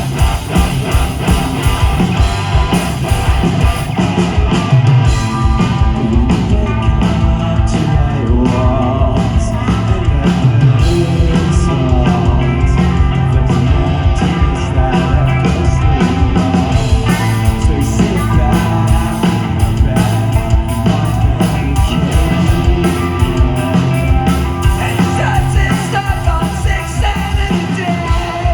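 A rock band playing live and loud, with drums, guitars and singing.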